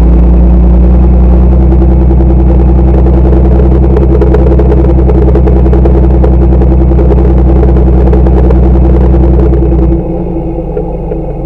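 Tractor diesel engine running loud and close at a steady pace, as if working under load; near the end it eases off and the deep hum drops away.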